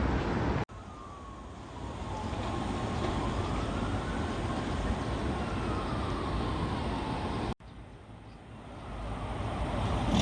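A siren wailing some way off, its pitch slowly rising and falling, over a steady wash of street noise. The sound cuts out abruptly twice, about a second in and near the end.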